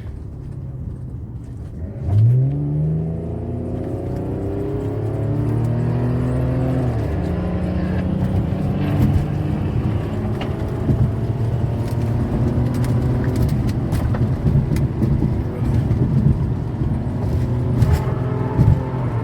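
Audi Avant wagon's engine kicking down with a sharp rise in revs about two seconds in, then pulling hard under full acceleration, with a gear change around seven seconds and steady road noise as speed builds.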